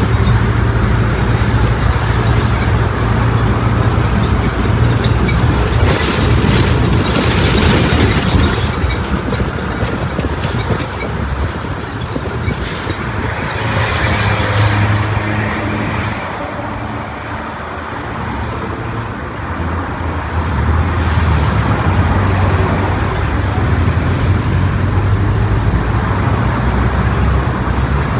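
Mercedes-Benz OF1722 bus's six-cylinder diesel engine running under way: a steady drone that eases off past the middle and then pulls again. A few short hissing bursts come over it.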